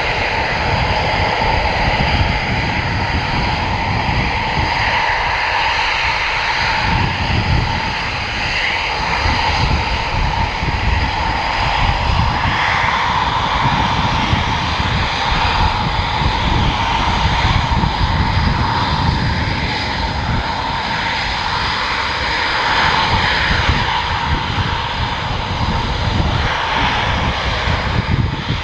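Military jet engine noise running steadily: a continuous rumble with a steady high whine over it.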